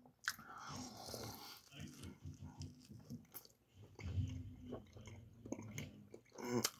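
A bite into a syrup-covered pancake-wrapped sausage on a stick, then faint, irregular close-up chewing with the mouth closed.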